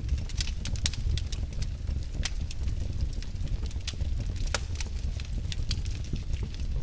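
Wood fire crackling in a fireplace: frequent, irregular sharp pops and snaps over a low steady rumble.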